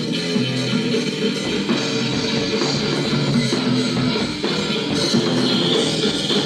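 Rock music: electric guitars and bass playing with a drum kit.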